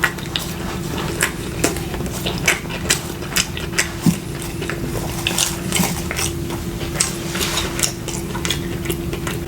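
Mukbang eating sounds: scattered small clicks, taps and crunches as food is handled and eaten from takeout containers, over a steady low hum.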